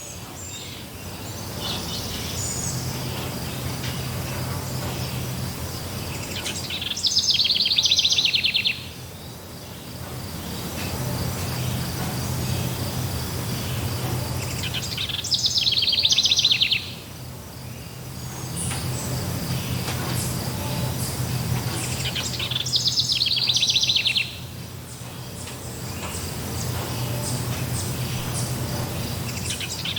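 Forest ambience of birds chirping and insects, with a loud, rapid high trill of about two seconds that comes back roughly every eight seconds, three times. A faint steady high buzz and a low hum run underneath.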